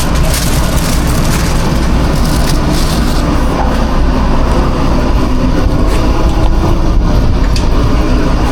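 Steady, loud, low mechanical drone of a food truck kitchen's running equipment, with a few faint clicks and knocks of kitchen work over it.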